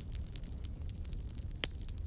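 Fireplace crackling: scattered small pops with one sharper pop about three quarters of the way through, over a low steady rumble.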